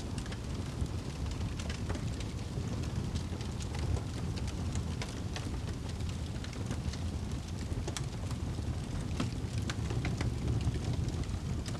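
Wood fire crackling and popping, with irregular sharp snaps over a steady low rumble.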